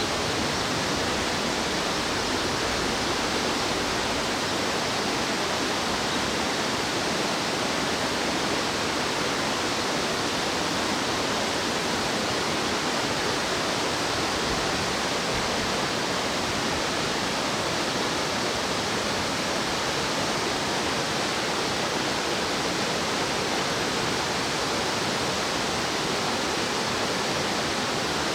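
Steady rushing of fast-flowing stream water, an even, unbroken noise.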